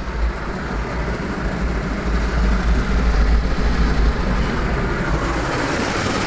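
Automatic car wash running, heard from inside the car: a steady deep rumble that fades about five seconds in, under a hiss of spray that grows stronger toward the end.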